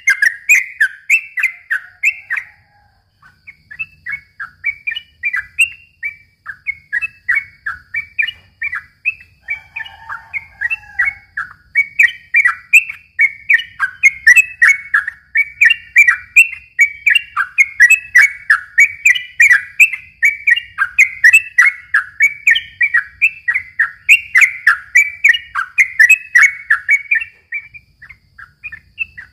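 Yellow-vented bulbul (trucukan) singing a long, fast run of short chattering notes, about four a second, with a brief pause near the start and another near the end.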